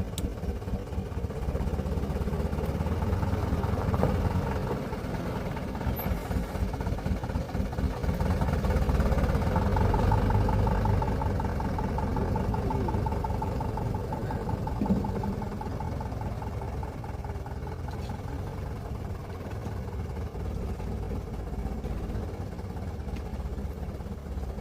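Truck engine running, growing louder about eight seconds in and easing off again after about twelve seconds, with a faint whine in the middle.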